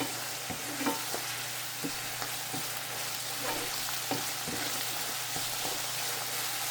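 Oyster mushrooms sizzling in a stir-fry pan, stirred so that the utensil knocks and scrapes against the pan every half second or so.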